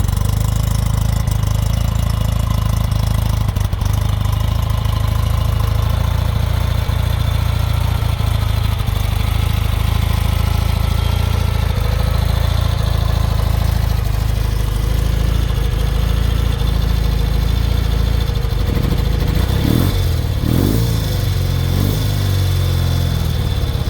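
1972 BMW R75/5's air-cooled 750 cc flat-twin boxer engine idling steadily after a cold start. Near the end its pitch swings up and down a few times.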